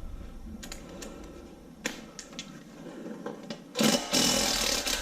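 Scattered light metal clicks of a socket wrench being worked, then near the end a loud stretch of rapid ratchet clicking as the 13 mm nut holding the oil pickup tube is run off.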